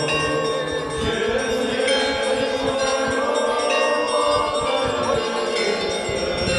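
Orthodox church bells ringing a peal, many overlapping ringing tones with new strikes roughly every second.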